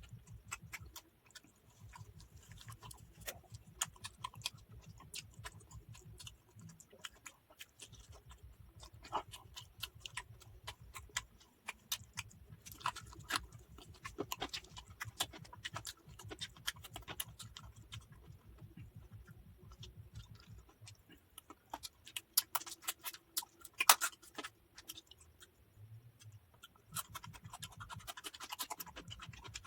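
Faint eating sounds: rice and chicken curry mixed and eaten by hand, with chewing and many small irregular clicks and scrapes.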